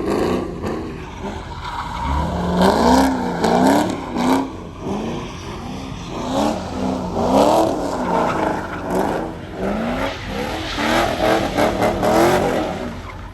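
Performance car engine revving hard, its pitch climbing and dropping again and again throughout.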